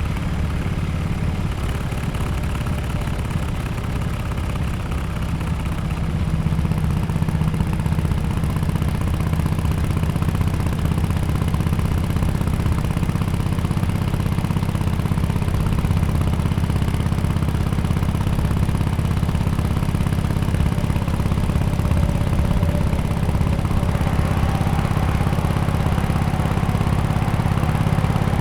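Exhaust of a 2017 Harley-Davidson XL1200X Forty-Eight's air-cooled 1200 cc V-twin through an aftermarket exhaust, running at low, fairly steady revs. It gets a little louder about six seconds in.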